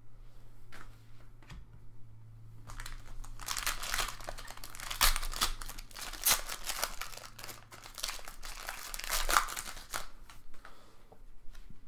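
Plastic foil wrapper of a trading-card pack being torn open and crinkled. A dense crackling run begins about three seconds in and stops near the end, over a low steady hum.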